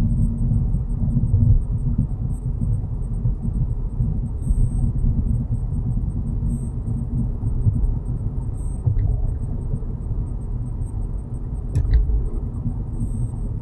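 Low, steady rumble of a Volkswagen Jetta Mk6 rolling at low speed, with a short low buzz right at the start, the brake-pedal buzz that occurs when braking below 10 km/h. A single sharp click about twelve seconds in.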